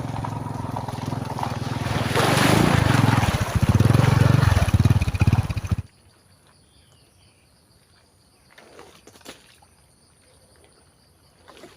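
Motorbike engine running, louder from about two seconds in, then stopping abruptly about six seconds in. A few faint clicks follow in near quiet.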